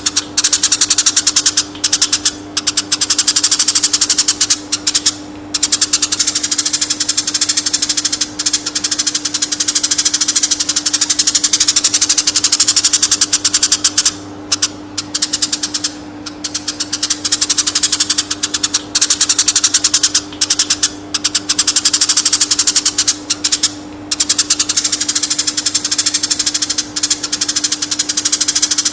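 Eurasian tree sparrow chattering: a fast, almost unbroken stream of high chirps with a few short breaks, over a steady low hum.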